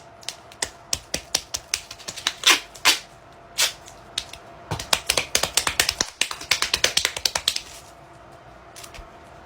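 A quick, irregular run of sharp clicks and taps, several a second, that stops about eight seconds in.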